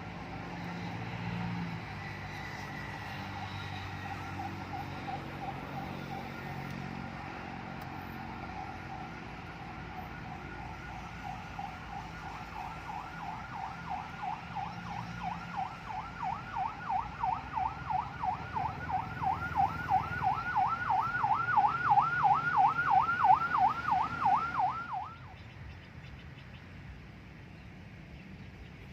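Yelp-type siren wailing up and down about two to three times a second, growing steadily louder over some fifteen seconds, then cutting off suddenly. Under it is a low rumble of traffic.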